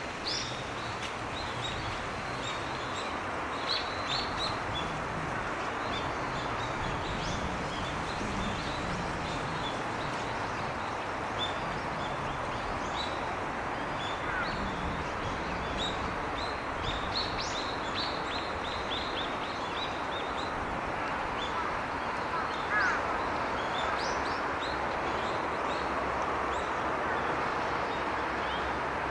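Short, high bird chirps scattered throughout, in clusters, over a steady rushing background noise.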